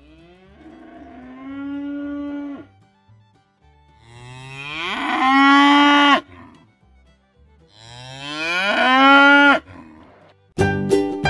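A bull mooing three times: a quieter moo, then two long, loud ones, each sliding up in pitch at its start. A piano tune starts near the end.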